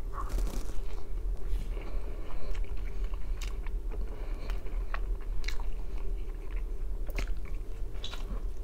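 A man biting into and chewing a slice of thin-crust pizza, with scattered crisp clicks from the crust; he takes a fresh bite near the end.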